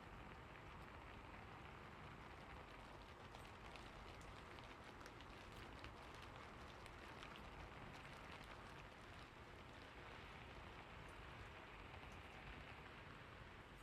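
Faint, steady rain: an even hiss of rainfall with scattered small drop ticks.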